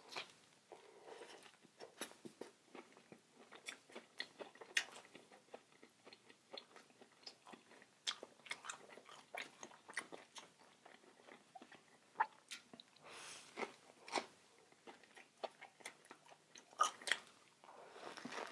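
A person chewing and biting food close to the microphone: irregular wet mouth clicks and soft crunches, with a few louder crunches near the middle and the end.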